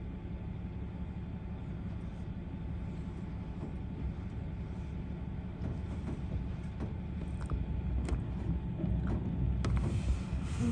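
Front-load garbage truck's diesel engine running steadily, a little louder in the second half, with a few sharp knocks from the truck's arms or bins near the end.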